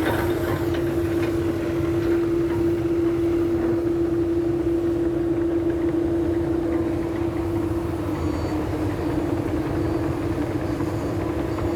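Mitsubishi Canter dump truck's diesel engine running steadily, a low rumble with a steady whine over it.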